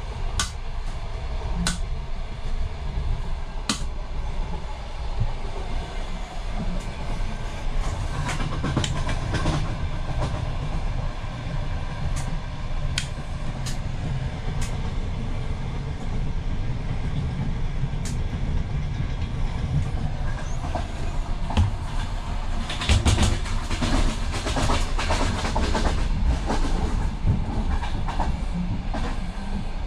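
Ukrainian Railways sleeper coach running, heard from inside the compartment: a steady low rumble with scattered sharp clicks, turning into a louder, denser rattle about two-thirds of the way through.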